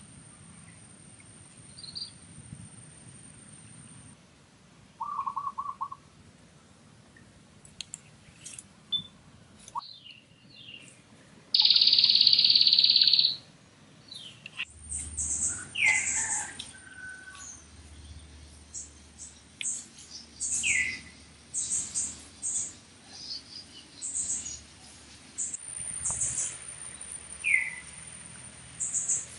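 Wild birds chirping and calling in many short high notes, some as quick falling whistles. About twelve seconds in, a loud, even high buzz lasts nearly two seconds.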